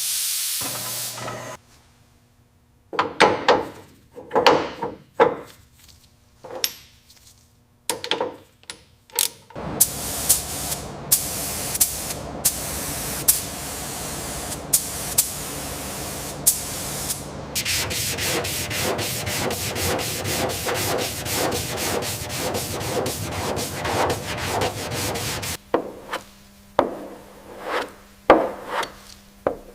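Repeated rubbing strokes of hand work on the car, in short clips cut together. In the later part the strokes come fast and even; before and after, they come one at a time.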